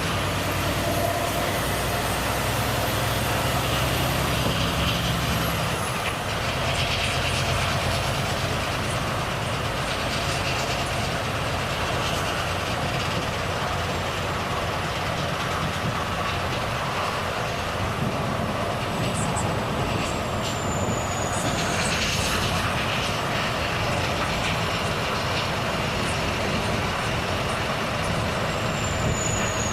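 Volvo FH truck on the move: the engine hum is plain for the first few seconds, then steady tyre and road rush takes over. Brief high falling whistles come twice, about two-thirds of the way in and again near the end.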